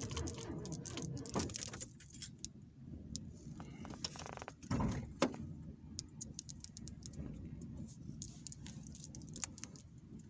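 A car's engine running with a low steady rumble, heard from inside the cabin, with light metallic jingling and clicking rattles throughout and one louder knock about five seconds in.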